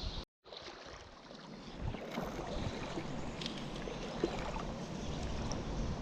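Mountain stream water rushing steadily, with a few light clicks. The sound cuts out completely for a moment just after the start.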